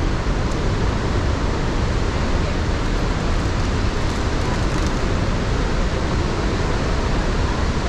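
Iguazu Falls: a steady rush of falling water, with the heaviest weight in the low end.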